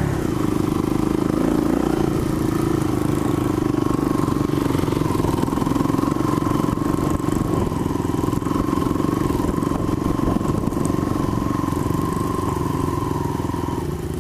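Small off-road engine running at a steady speed, its pitch held even, easing slightly near the end.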